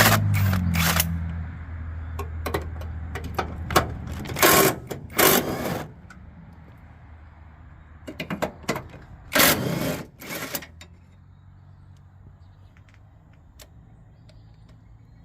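Ratchet wrench clicking in short quick runs, with scattered metallic clicks and clinks of tools, as bolts are worked on an engine mount. The runs come about four and five seconds in and again around ten seconds; near the end there are only faint ticks.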